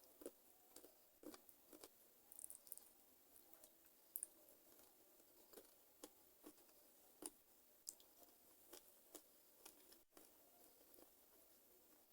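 Quiet close-miked chewing of chicken feet: irregular soft, wet clicks and smacks of the mouth and teeth working the skin and small bones.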